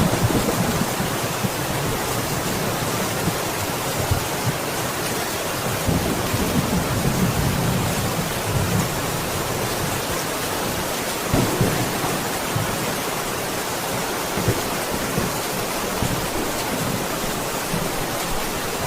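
Steady rain, an even hiss, with deeper low swells that come and go a few times, like distant thunder.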